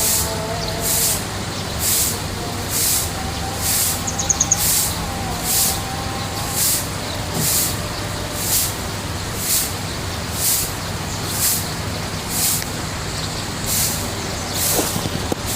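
Koi pond ambience: a steady low hum and a hissing swell that repeats about once a second, with a brief rapid high bird trill about four seconds in.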